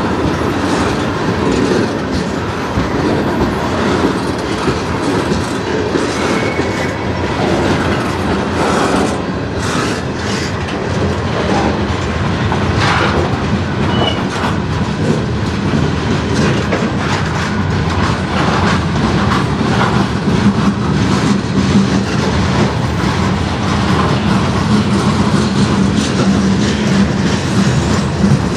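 Freight cars of a passing manifest train rolling by close at trackside: tank cars, lumber flatcars and boxcars. The sound is a steady, loud rumble with the irregular clickety-clack of steel wheels over rail joints.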